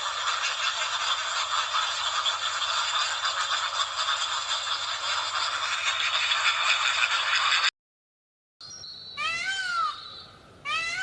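A dense, steady rushing noise of unclear source stops suddenly, and after a brief gap a domestic cat meows twice near the end, each call rising then falling in pitch.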